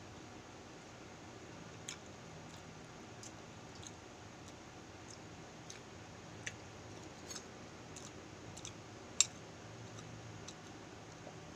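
Scattered small clicks and ticks of a balut egg being handled in a ceramic bowl, eggshell picked off by hand and a spoon touching the bowl, with one sharper tap late on, over a faint steady hum.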